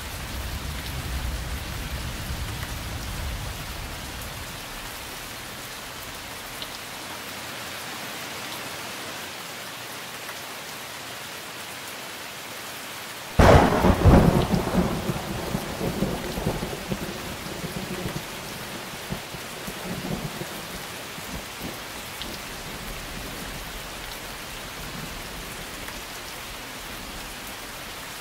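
Steady rain with a sudden thunderclap about halfway through that rumbles away over several seconds. A low rumble fades out in the first few seconds.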